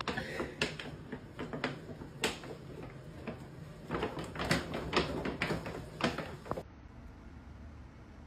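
Irregular light knocks and clicks, several a second, that stop abruptly near the end.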